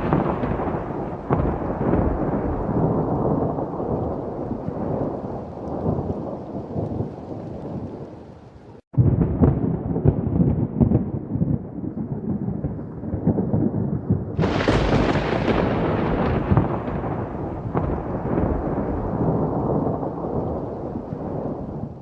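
Thunder during a thunderstorm: a long rolling rumble that slowly fades, breaks off suddenly about nine seconds in, and goes on again, then a fresh loud peal about fourteen seconds in that dies away slowly.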